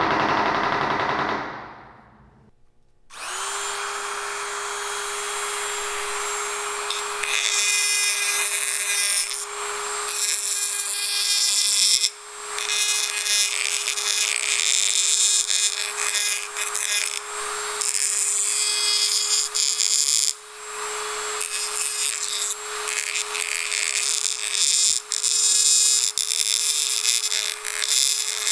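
A power tool starts about three seconds in and runs with a steady whine under a harsh, rough grinding noise that rises and falls. It dips briefly twice.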